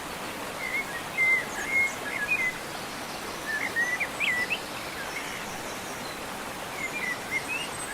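Steady rush of a waterfall, with a songbird chirping in short bursts over it, in groups about a second in, around the middle and near the end.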